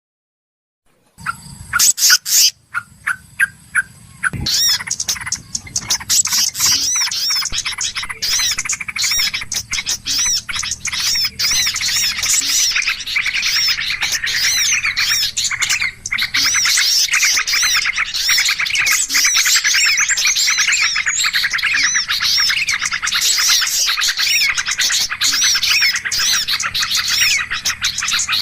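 Bird-lure recording of small birds chirping and twittering. A few loud, sharp calls start about a second in, then it builds into a dense, unbroken chorus of rapid high chirps.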